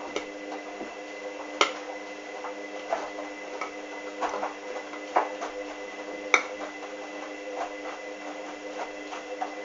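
Hoover washing machine running early in its wash cycle: a steady motor hum as the drum turns, with irregular clicks and knocks, two of them sharper than the rest.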